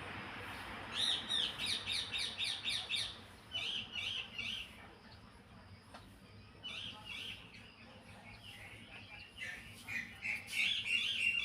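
A small bird's rapid, high-pitched chirping, about five chirps a second, in several bursts with short pauses between them, loudest near the end.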